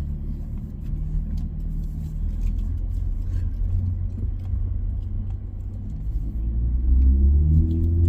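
A 2024 Nissan Frontier's 3.8-litre V6 running through a straight-piped exhaust with no muffler, a low rumbling drone as the truck pulls away. It gets louder and rises in pitch near the end as the engine accelerates.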